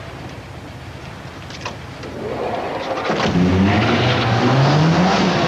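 Ford Escort hatchback's engine accelerating hard. A low steady rumble for about two seconds, then the engine note grows loud and climbs steeply, dipping briefly near the end.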